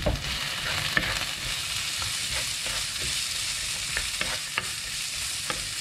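Food sizzling in hot oil in a frying pan while it is stirred with a spatula, which clicks and scrapes against the pan every second or so.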